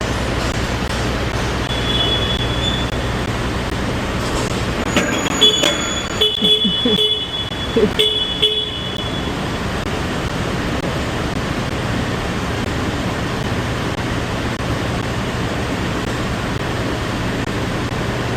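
Semi-truck running on the road, heard as a steady low drone of engine and road noise. Several short high-pitched tones with a few clicks come about five to nine seconds in.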